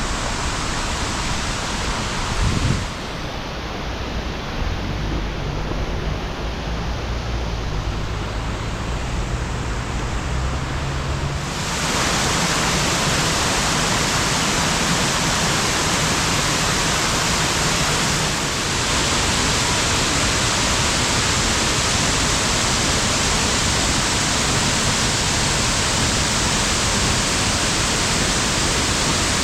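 Swollen creek water rushing steadily over a road crossing and cascading below it, a dense, even roar of water that grows louder about twelve seconds in. A low hum sits underneath for several seconds before that.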